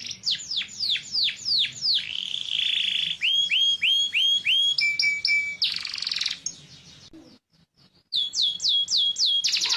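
Domestic canary singing: runs of quick, high falling whistled notes and rolling trills, a short steady note and a buzzy trill. It breaks off briefly about seven seconds in, then resumes with falling notes and a fast trill at the end.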